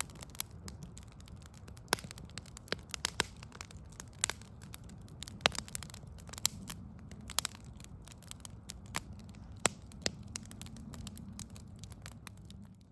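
Backyard log fire crackling, with irregular sharp pops over a low steady rumble; the sound cuts off suddenly near the end.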